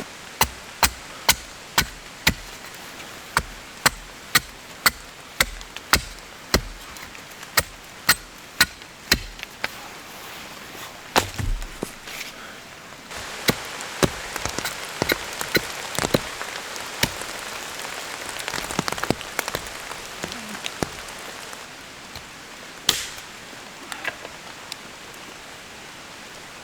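Wood being chopped with quick, regular strokes, about two a second, for roughly the first twelve seconds. After that come slower, scattered knocks and clicks, all over steady rain.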